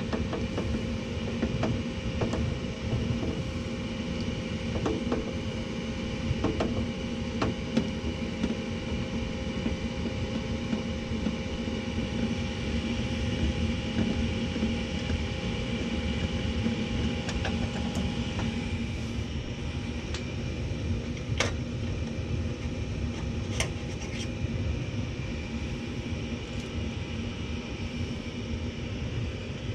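Gas furnace running with a steady rumbling hum and several steady tones, from its motors. Small metal clicks and taps are heard now and then, and a few sharper ones come about two-thirds of the way in.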